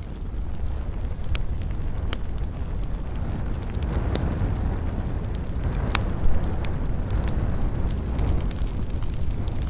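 Wood fire burning in a fireplace: a steady low rumble of flames with scattered sharp crackles and pops, one louder pop about six seconds in.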